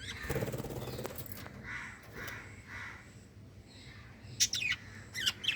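Pet budgerigars chattering: a harsh rasping call in the first second, soft short chirps through the middle, then a quick run of loud, sharp, high chirps near the end.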